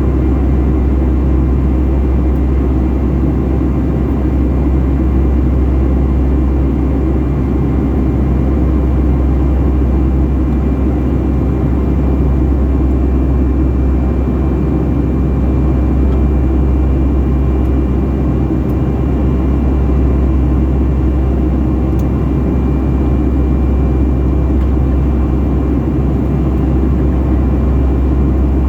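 Boeing 757-300 jet engines and airflow heard inside the passenger cabin: a loud, steady low rumble with a faint high whine.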